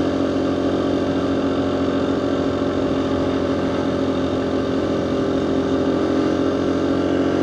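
Dual-sport motorcycle engine running at a steady speed, heard from a microphone inside the rider's helmet.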